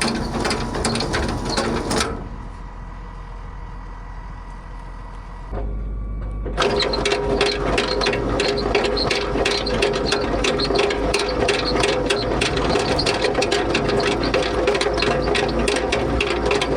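Farm machinery running with a rapid, dense mechanical clatter. It drops away abruptly about two seconds in, a low rumble comes in a few seconds later, and the clatter resumes loudly about a third of the way through with a steady hum beneath it.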